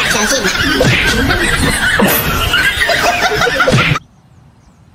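People snickering and laughing, loud and wavering, for about four seconds, then it cuts off suddenly to a quiet background.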